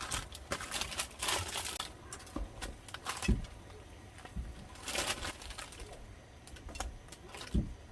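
Intermittent rustling and crinkling of handled material, with scattered clicks and two soft low thumps, one about three seconds in and one near the end.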